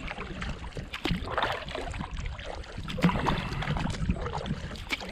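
Canoe paddle strokes through lake water, with splashing and dripping off the blade, swelling about a second in and again about three seconds in.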